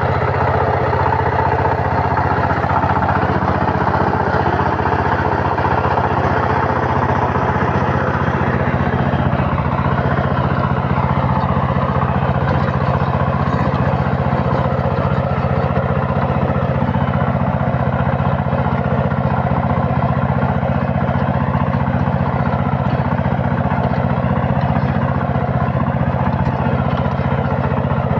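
Two-wheel walk-behind tractor's engine running steadily under plowing load, an even, unbroken drone.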